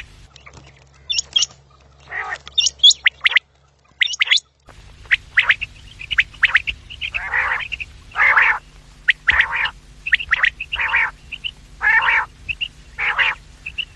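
Quails calling: a run of short, harsh calls, about one a second in the second half, with thinner high chirps early on. The sound drops out for about a second near the four-second mark.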